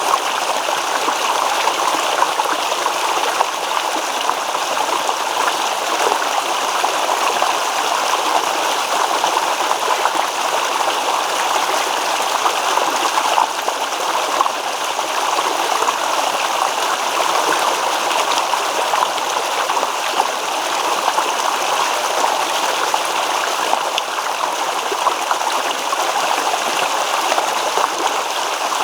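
Babbling stream: water rippling and trickling over stones, a steady rushing and splashing with no pauses.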